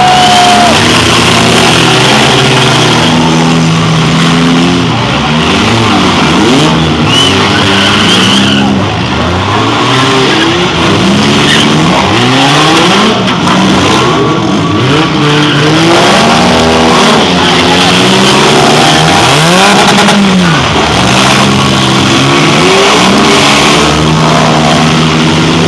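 Several demolition derby cars' engines revving up and down at once, overlapping and rising and falling over and over as the cars charge around the arena.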